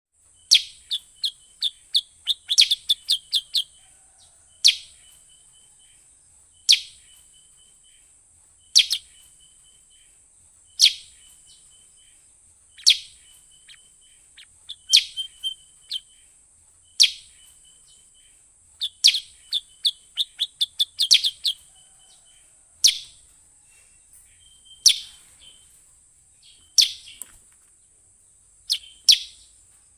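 Kutilang sutra lure call: sharp, falling high notes repeated about every two seconds, each followed by a short rattling trill, with quick runs of rapid chirps here and there. A steady high-pitched hiss runs underneath.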